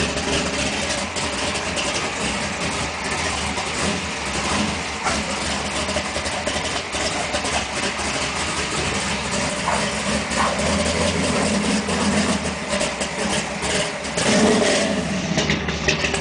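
598-cubic-inch V8 drag engine in a 1973 Camaro Z28 running steadily at idle, swelling briefly about fourteen seconds in.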